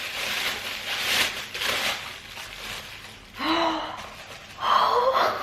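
Packaging rustling as a gift is unwrapped by hand, followed by two short gasps of surprise near the end.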